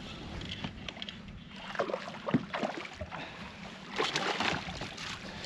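Small on-the-water sounds from a fishing kayak: irregular splashes, swishes and light knocks, clustered about two seconds in and again about four seconds in, over a steady low hum.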